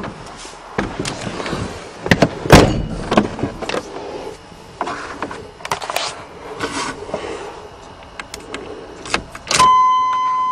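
Irregular clicks, knocks and rattles of handling in a pickup truck's cab, the loudest a sharp knock about two and a half seconds in. Near the end a steady electronic tone starts and holds.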